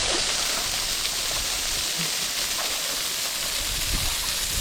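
Waterfall rushing steadily, with water pouring and splashing over rock.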